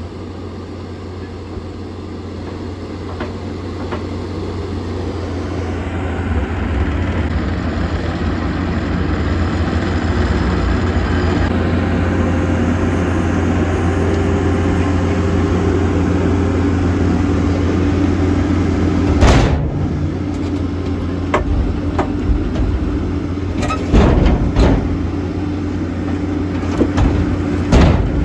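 Gehl CTL 85 turbocharged compact track loader's diesel engine running steadily, growing louder over the first ten seconds as it works. Several sharp knocks come later, from wood blocks landing in the dump trailer.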